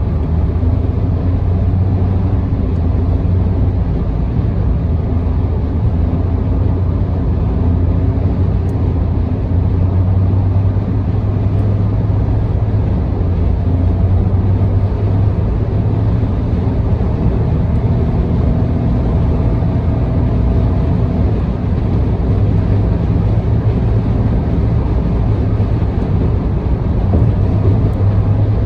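Steady car cabin noise at expressway speed: a low drone of engine, tyres and road.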